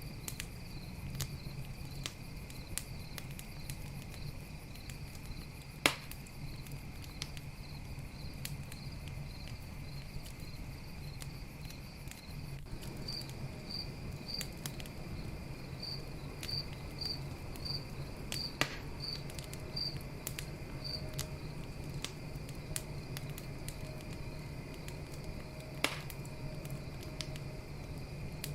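Campfire crackling with many small snaps and three loud pops, over steady cricket chirping.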